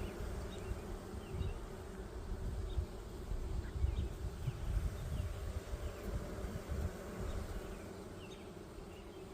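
Honeybees in an opened hive buzzing in a steady hum as a frame crowded with bees is examined.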